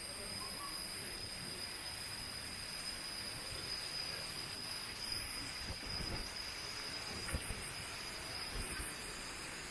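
Steady rush of running water from a stream or waterfall, with a constant high-pitched drone of insects over it.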